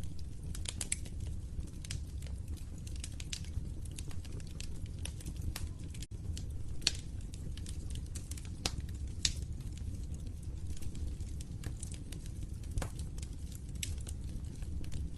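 Wood fire in a fireplace crackling: irregular sharp snaps and pops, a few louder than the rest, over a steady low rumble of the burning fire.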